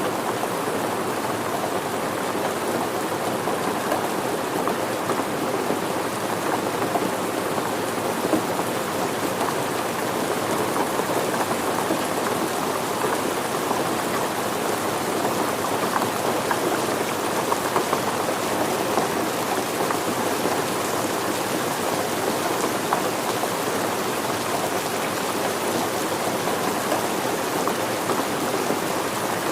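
Steady rain falling on surfaces, a dense even patter of many drops.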